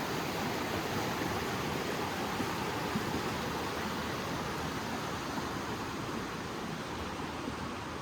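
Creek water rushing in a steady, even flow that fades slightly near the end.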